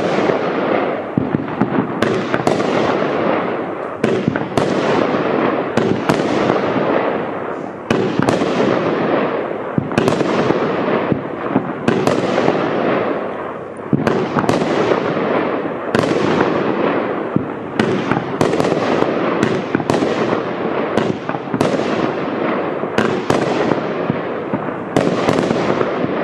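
Gold Skool 25-shot, 200 g consumer firework cake firing in sequence: sharp bangs about once a second, each trailed by a fading rush of noise, with no gap between shots.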